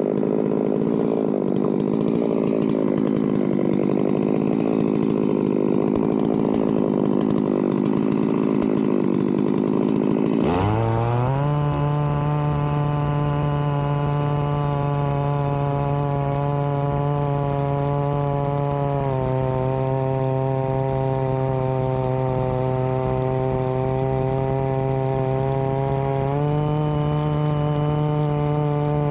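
Chainsaw running hard under load, cutting through a log. About a third of the way in the sound changes abruptly to a steady, even drone with a clear pitch, which steps down once and later back up.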